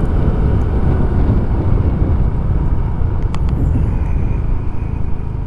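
Riding noise on a Suzuki Address 110 scooter under way: a steady low rush of wind over the microphone with the small 110cc engine and road noise beneath it.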